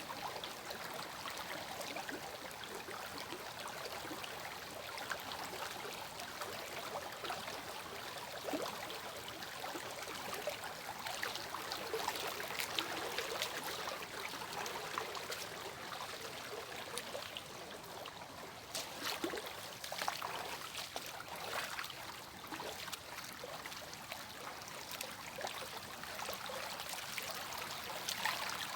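Water running over a small cascade: steady splashing and trickling with bright spatters.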